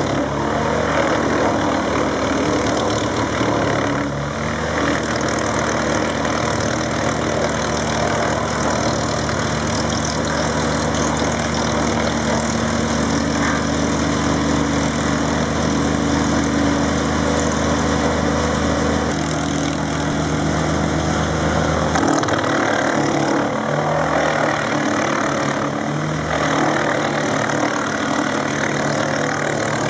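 Drum wood chipper running on its own engine, a steady mechanical drone with a dense rushing noise over it; the engine note shifts several times as the load changes.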